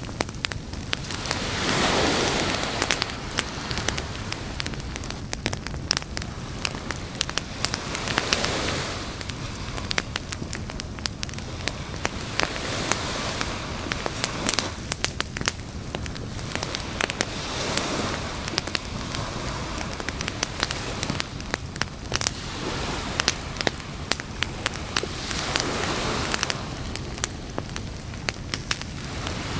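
Campfire crackling and popping steadily, with surf washing in and out in slow swells every several seconds.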